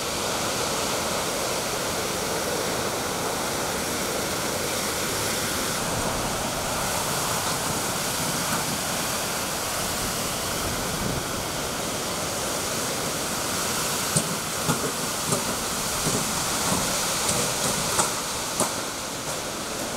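Hurricane-force wind and rain making a steady rush of noise. From about two-thirds of the way through, sharp irregular taps and knocks sound over it.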